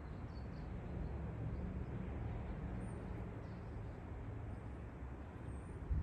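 Birds giving a few faint, short, high chirps now and then over a steady low rumble.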